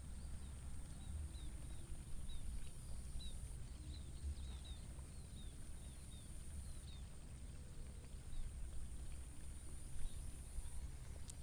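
Open-field ambience: a steady high-pitched insect drone with many short, falling chirps scattered through it and a low rumble underneath. A single sharp click comes near the end.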